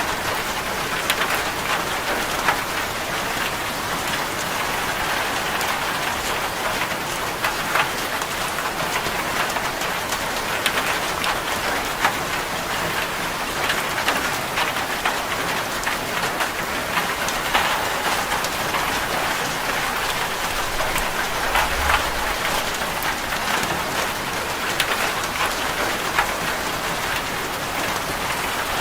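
Steady heavy rain drumming on a corrugated zinc sheet roof, with many individual drops ticking against the metal.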